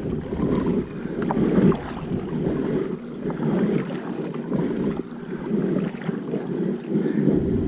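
Wind rushing over the action camera's microphone on a kayak: a steady, uneven low rushing noise.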